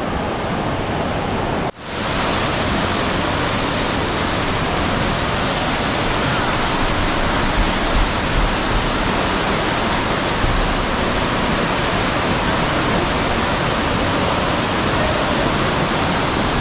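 Waterfall pouring, a loud steady rush of water that cuts out for an instant about two seconds in.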